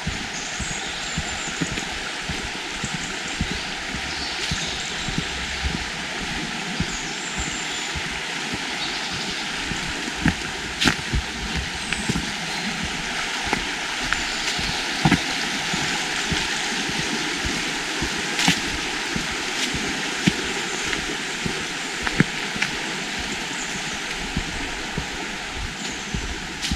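Steady rush of flowing water, with scattered sharp clicks and a few faint high chirps.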